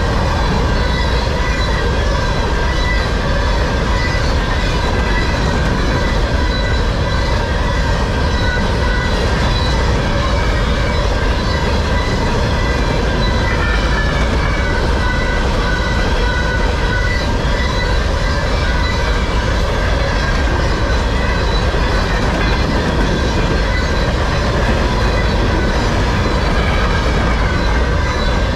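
Freight train of covered hopper cars rolling steadily past at close range: a continuous rumble of steel wheels on rail, with steady high ringing and squealing tones from the wheels over it.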